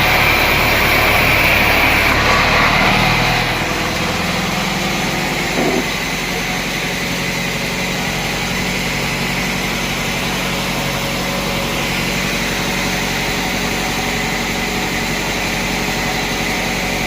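Sawmill machinery running steadily. It is louder for about the first three seconds, then settles to a lower, even running sound, with a single brief knock a couple of seconds later.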